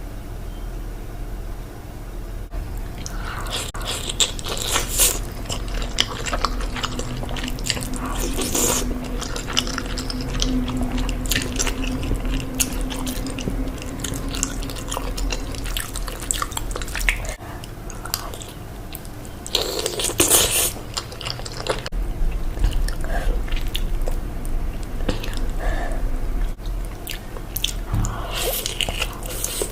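Close-miked eating: biting and chewing of cheese noodles and chicken, a dense run of small wet clicks and smacks, with a louder burst about twenty seconds in.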